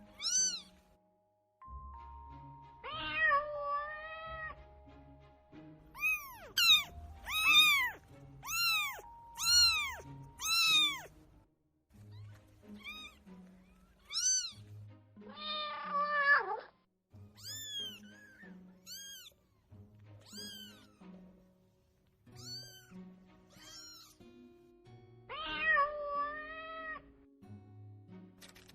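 Kitten meowing repeatedly in high-pitched calls, a quick run of short meows in the middle and a few longer drawn-out ones, over soft background music.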